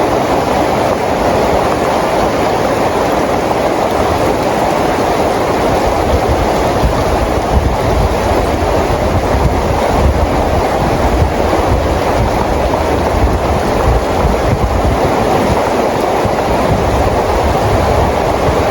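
Steady rain falling, a loud, even hiss with a low rumble underneath.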